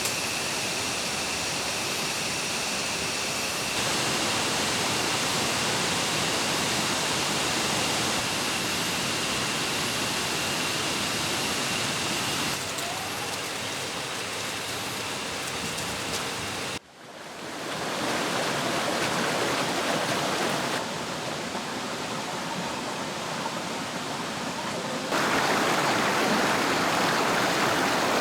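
Mountain valley stream rushing over rocks: a steady, even rush of water that jumps in level several times from shot to shot, with a sudden brief dropout about two-thirds of the way through. A faint steady high tone sits over the water in the first part.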